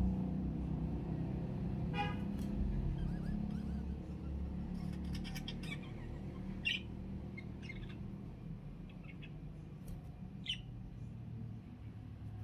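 Budgerigars chirping in short, scattered calls: a harsh, buzzy call about two seconds in, then quick twittering chirps, with sharper single chirps near the middle and near the end. A steady low hum runs underneath.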